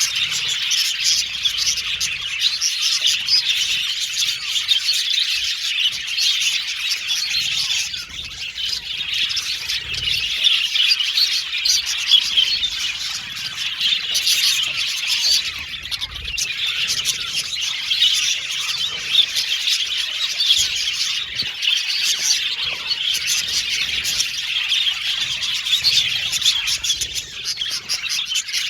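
A flock of budgerigars chattering and chirping all at once, many warbling and squawking calls overlapping without a break.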